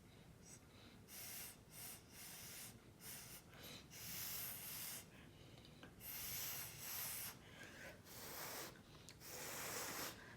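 Repeated puffs of breath blown onto wet acrylic pour paint to spread it into petal shapes. There are short puffs at first, then longer blows of about a second each from about four seconds in.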